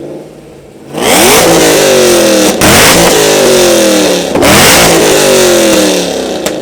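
Car engine with an aftermarket exhaust idling, then revved hard three times, about a second in, again near two and a half seconds and near four and a half seconds; each time the pitch shoots up and then sinks back slowly as the engine falls toward idle. Loud.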